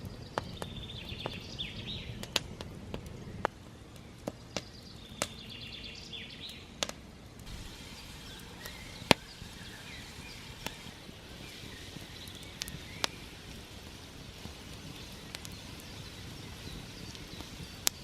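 Small wood campfire crackling, with irregular sharp snaps and pops over a steady low hiss; the loudest pop comes about nine seconds in. A bird sings briefly twice in the background in the first few seconds.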